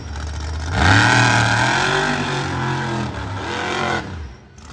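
Monster truck engine revving hard: the revs climb sharply about a second in, rise and fall for a couple of seconds, then drop away near the end.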